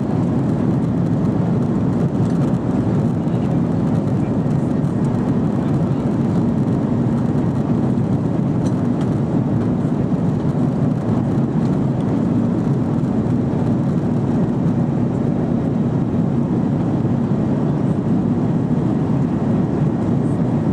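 Jet airliner in flight just after take-off, heard inside the cabin: a steady, loud low drone of engines and airflow, unchanging throughout.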